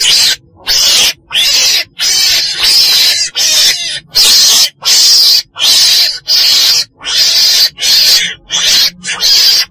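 Weasel (chồn đèn) calling over and over: a fast series of harsh, noisy cries, each about half a second long, coming about one and a half times a second without a break.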